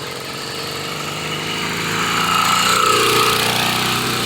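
79cc two-stroke motorized bicycle engine running as the bike rides closer. It grows louder to a peak about three seconds in, then eases off slightly.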